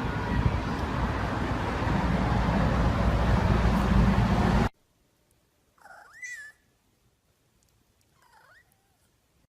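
A loud, steady rumbling noise that cuts off suddenly, then a domestic cat meowing twice: a clear meow with a rising and falling pitch, and a second, fainter one.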